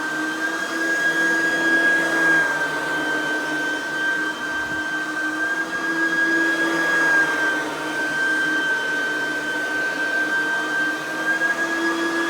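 Oreck XL9100c lightweight upright vacuum running: its small 3.2-amp direct-air motor gives a loud, steady high whine over an airy hiss, the pitch wavering slightly up and down.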